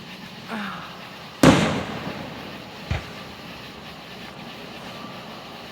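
Firework display shells bursting: one loud sharp boom about a second and a half in that rings on for about a second, then a smaller thump about three seconds in.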